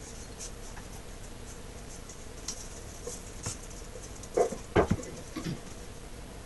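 Light clicks and taps of hand work on a wooden chest, then a quick cluster of three sharp knocks about four and a half seconds in, followed by a couple of softer knocks.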